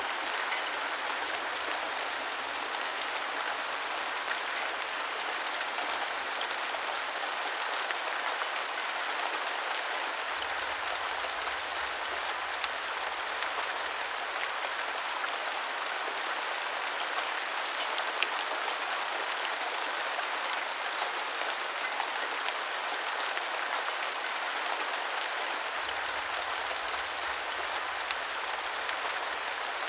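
Steady rain falling on a surface, an even hiss with scattered individual drops ticking, a few louder drops standing out.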